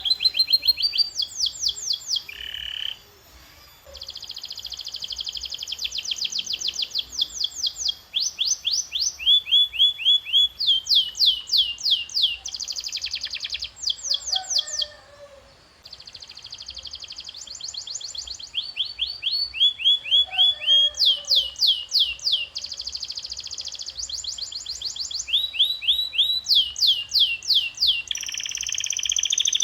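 Domestic canary singing a long song of trill phrases. Each phrase is a run of quickly repeated notes: some very fast and high, others slower and falling in pitch. The song breaks off briefly about three seconds in and again about fifteen seconds in.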